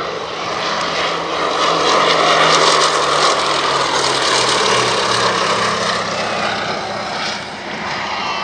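Propeller-driven aircraft flying past. The engine noise swells to its loudest a couple of seconds in, then its low note drops in pitch as the aircraft passes and fades.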